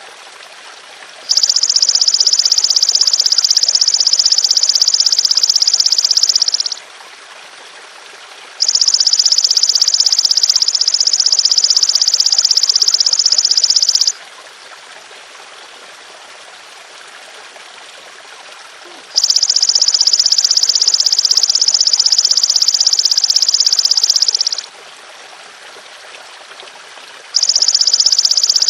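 Belalang emas (golden grasshopper) insect giving long, even, high-pitched buzzing calls of about five seconds each, four times with pauses between, the last cut off at the end. Trickling stream water runs steadily underneath.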